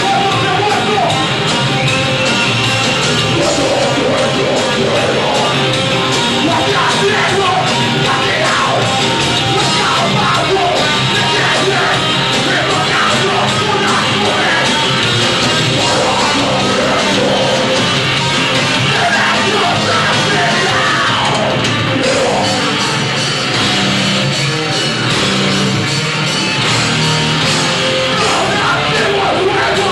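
Loud live heavy rock band playing, with distorted electric guitars, drums and a shouted vocal.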